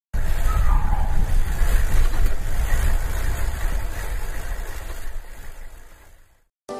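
Steady low rumble of wind and road noise from a ride, fading out near the end.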